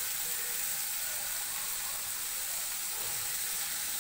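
Steady sizzling hiss of chopped tomato, onion and chilli frying in oil in a kadai over a gas flame.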